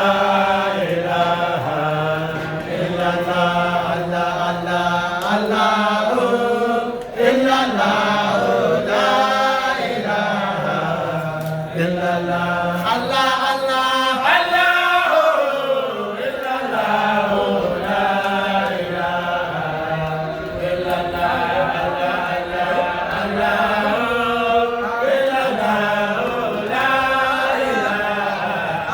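Group of voices chanting Islamic dhikr in a continuous, melodic chant with no pause, over a steady low sung line.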